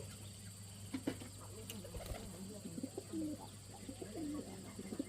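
Birds calling in a run of short, low, gliding notes that start about a second in, over a steady low hum.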